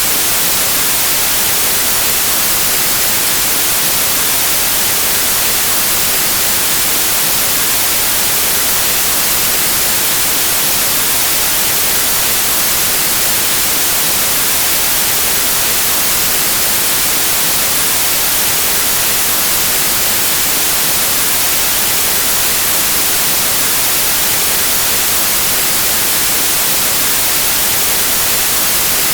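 Steady white noise: an even, unchanging hiss of static, brightest in the high end, with no other sound.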